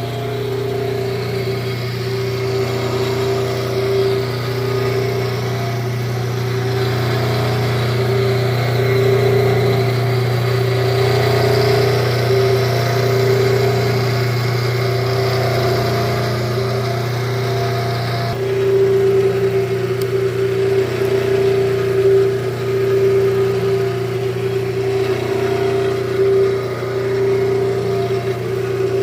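Engine of a powered wood-splitting machine running steadily at a constant speed, with small swells in level.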